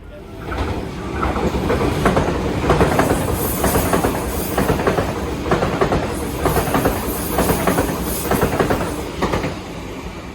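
Sydney Trains electric suburban train running past on the tracks, its wheels clattering over rail joints in a quick, irregular series of clicks. It comes up about half a second in and fades near the end.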